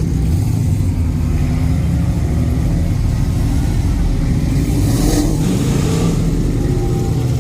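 Car engine running with a loud, low exhaust rumble, its pitch rising and falling slightly around the middle as it is revved lightly.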